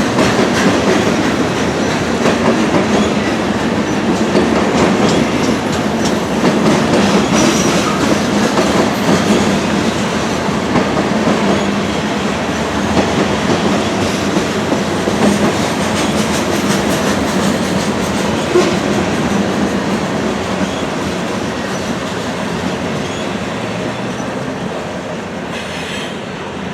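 Freight train cars rolling steadily past, steel wheels clicking over rail joints, the sound easing slightly near the end.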